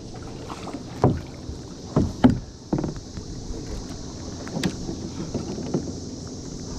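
Several hollow knocks on a plastic kayak hull, with a short low ring after some, bunched in the first few seconds with one more about halfway. A steady high buzz from the cicada chorus runs under them.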